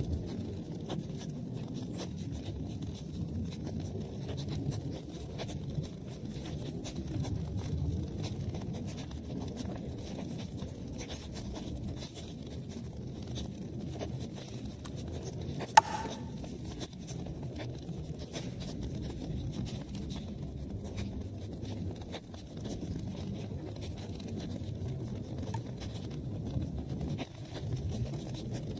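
Wood fire burning in a fireplace: a steady low rumble of flames with many small crackles and one sharp, loud pop about sixteen seconds in.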